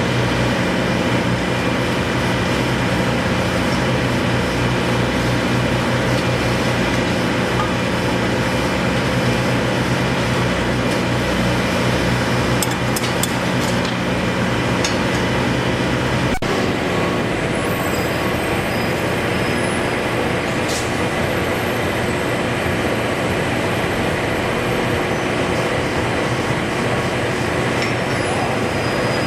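Steady, loud mechanical and traffic-like noise with a machine hum, changing abruptly a little past halfway as the low hum drops away.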